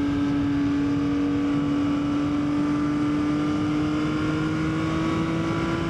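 Yamaha XSR900's inline-three engine running under steady load, its note climbing slowly as the motorcycle gains speed, over a low rush of wind noise.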